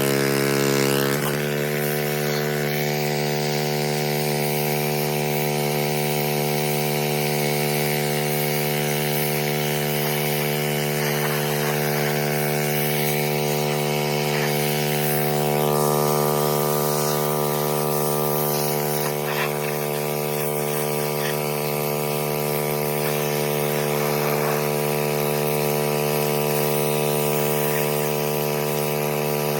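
A machine's motor switches on abruptly, settles within about a second, then runs at one steady pitch.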